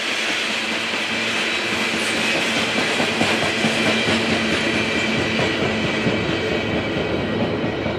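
Norfolk Southern open-top coal hopper cars rolling past at close range, with a steady rumble and clatter of wheels on the rails. A thin, steady high squeal from the wheels runs through it.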